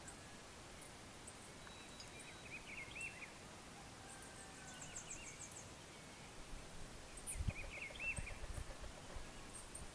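Faint bird chirps over a steady outdoor hiss: two short bursts of quick chirps, a few seconds apart, and a rapid high twitter between them. A few soft low thumps come near the end.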